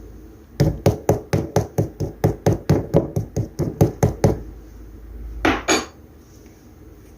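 A quick, even series of about sixteen sharp taps or knocks on a hard surface, roughly four a second for nearly four seconds. About a second later come two short, rougher scraping bursts.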